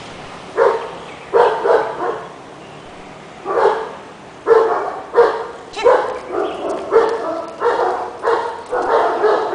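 A dog barking repeatedly: about a dozen short barks, a pause of a second or so after the first few, then a steady run of barks about one a second.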